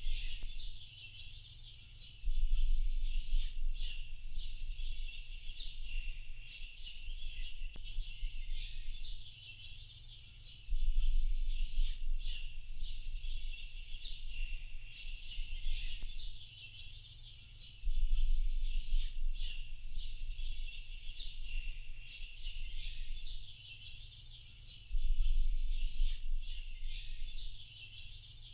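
A dense chorus of small birds chirping and twittering continuously. A low rumble swells in for a few seconds four times, and these are the loudest moments.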